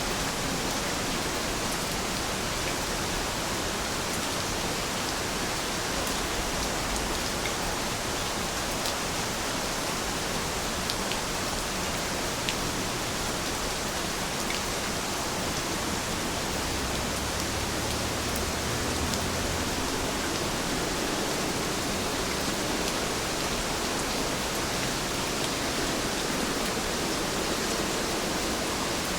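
Steady rain falling, an even hiss of water with a few faint drop ticks here and there.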